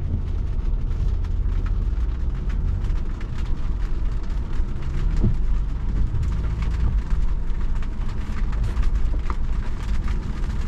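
An off-road vehicle's engine running low and steady, heard from inside the cab, with rain ticking on the body.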